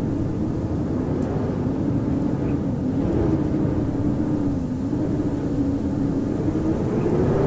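Howling blizzard wind: a steady low rush with a howl whose pitch wavers slowly up and down.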